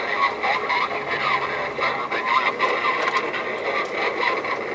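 Voices of other truckers over a CB radio in the truck cab, sounding thin through the radio's speaker.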